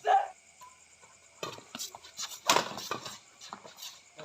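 Badminton rally: a brief shout at the start, then a string of sharp hits and taps of rackets on the shuttlecock and players' footwork on the court, the loudest hit about two and a half seconds in.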